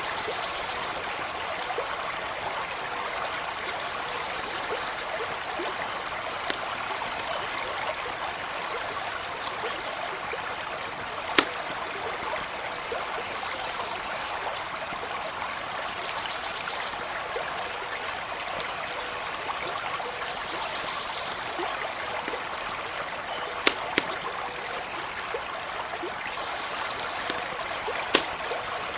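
Stream flowing with a steady, even rush of water. A few sharp pops from a wood campfire stand out over it: one about eleven seconds in, two close together near twenty-four seconds and one near the end.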